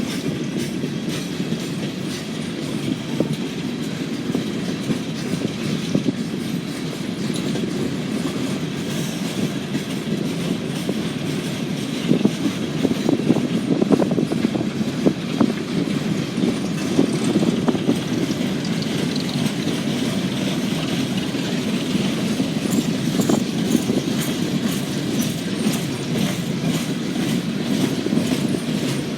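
CSX train E875 rolling steadily past, its wheels clacking over the rail joints above a continuous running noise.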